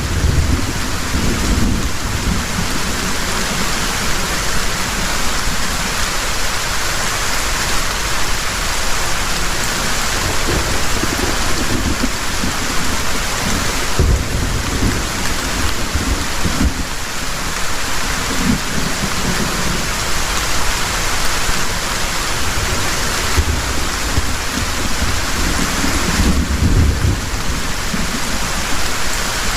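Heavy rain falling steadily, with low thunder rumbles swelling and fading several times.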